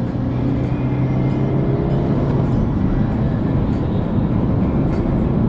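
Car engine running hard at a steady note, with road and wind noise; the steady note holds for about two seconds, then blurs.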